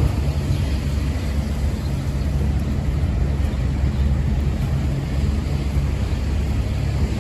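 A boat engine running steadily: a low, even hum with a rush of noise over it.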